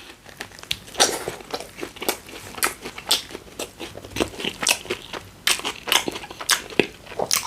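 A person chewing a mouthful of Subway sandwich close to the microphone: irregular crunchy clicks of bread and fillings being chewed, several a second.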